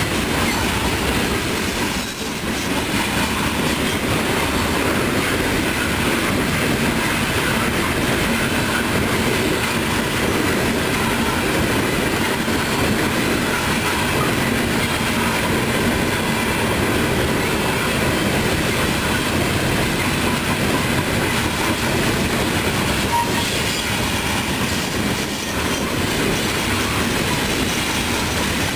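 Loaded coal hopper cars of a long freight train rolling past, a steady noise of steel wheels running on the rails.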